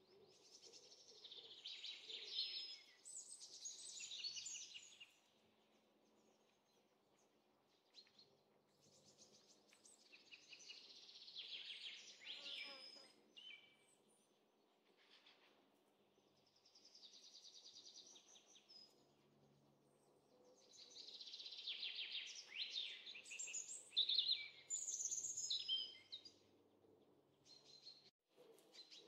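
Small songbirds singing in four separate bursts of rapid chirps and trills, each a few seconds long, with quiet gaps between them.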